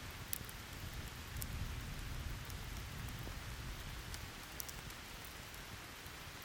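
Steady hiss of heavy rain, with a low rumble of distant thunder that fades away over the first four seconds. A few sharp crackles from a wood campfire pop through the rain.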